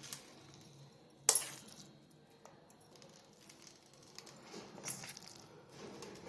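Kitchen utensils clinking against a baking tin as the chhena mixture is filled in, with one sharp clink about a second in and a few lighter knocks later.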